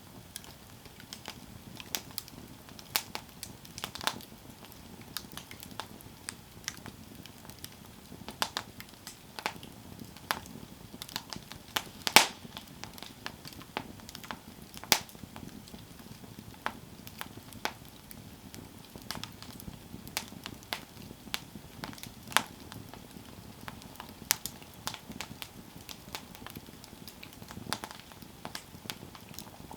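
Campfire burning, with irregular sharp crackles and pops over a low steady hiss of the flames; the loudest pop comes about twelve seconds in.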